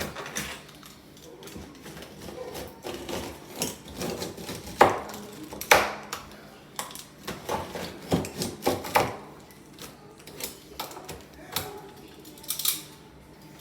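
Irregular knocks, taps and clatter of tools and parts being handled during sink repair work, some strikes sharper and louder than others.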